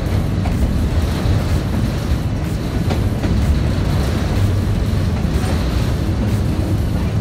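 Diesel-hauled passenger train running along the track: a steady low rumble of the cars and locomotive, with a few faint wheel clicks over the rails.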